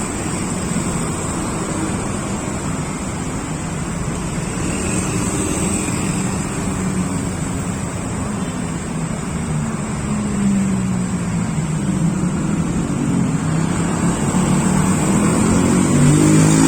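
A motor vehicle engine running steadily, its pitch shifting about ten seconds in and growing louder near the end.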